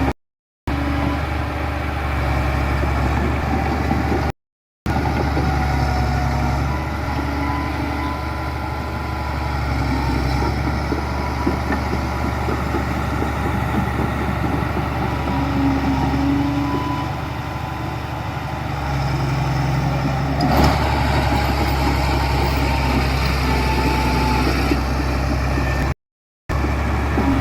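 Heavy diesel construction machinery running steadily, engine rumble with its pitch shifting a little as it works, and a single knock about two-thirds of the way through. The sound drops out completely for a moment near the start, once more a few seconds in, and again near the end.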